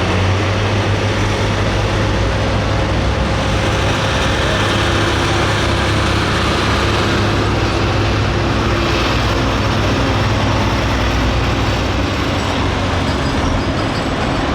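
Pulling tractor's diesel engine running loudly and steadily, without clear revving.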